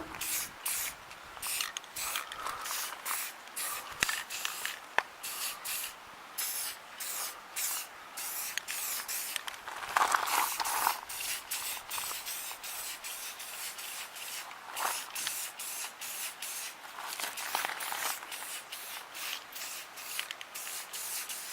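Rust-Oleum aerosol spray paint can hissing in many short bursts, one after another, as black paint is laid on bare steel brackets.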